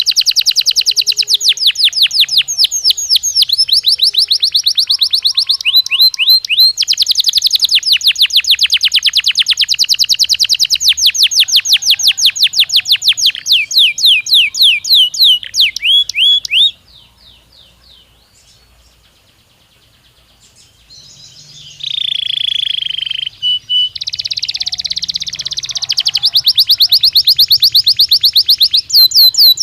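Belgian canary (Waterslager) singing: long rolling trills of very rapid repeated notes, with a pause of a few seconds past the middle before the song resumes with a warbled phrase and more fast trills.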